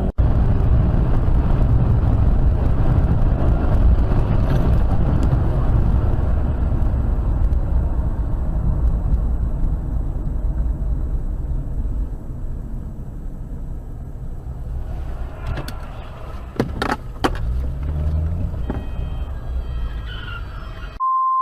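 Car engine and road noise heard from inside a moving car, a steady low rumble, with a few sharp knocks about three quarters of the way through. Near the end, a single steady electronic beep.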